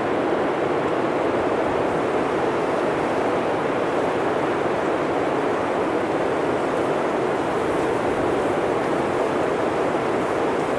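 Steady blizzard wind, a constant even rush of noise with no gusts or breaks.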